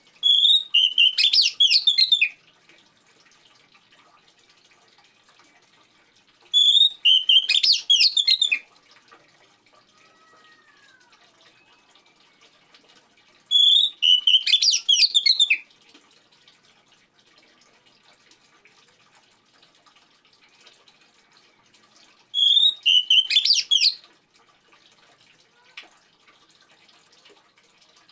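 Oriental magpie-robin song: a burst of rapid high notes about two seconds long, the same phrase heard four times several seconds apart, over a faint steady trickle of water.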